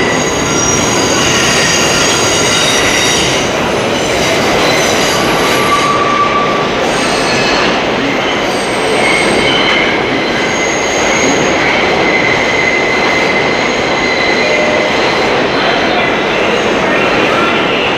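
Train rolling past at a steady, loud level, its wheels squealing on the rails in many short, high-pitched tones.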